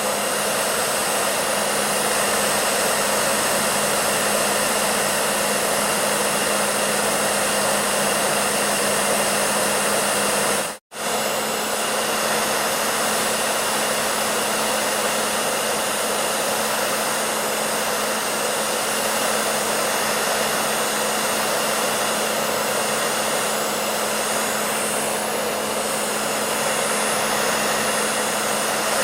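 Hair dryer running steadily: an even blowing rush over a low, steady hum. It cuts out for a split second about eleven seconds in, then runs on as before.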